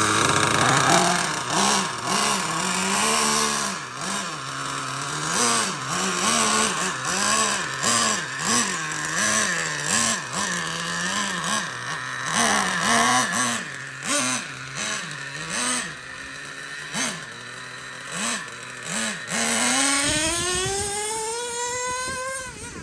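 Traxxas Revo 3.3 RC truck's small nitro glow engine revving up and down in quick repeated blips, then one long rising rev near the end as the truck accelerates away.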